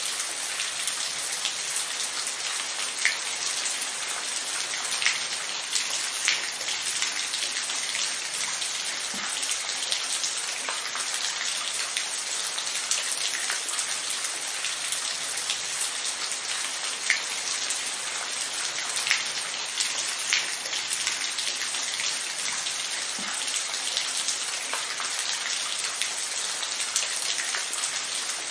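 Steady rain, an even hiss with many individual drops ticking sharply on a surface close by.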